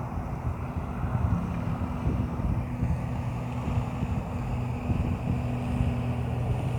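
Motorboat engine droning steadily, with wind buffeting the microphone.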